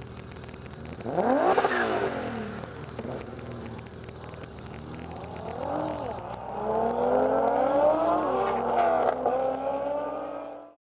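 Tuned Audi B5 2.7-litre V6 biturbo engines idling, then revved sharply about a second in, blipped twice more, and held at high revs for the last few seconds on launch control and antilag. The sound cuts off just before the end.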